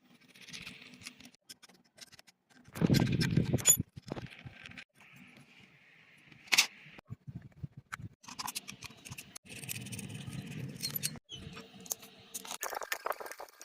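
Small metal parts clinking, knocking and rattling as they are handled while an exhaust fan's motor is taken apart, with a louder clatter about three seconds in and a single sharp click a few seconds later.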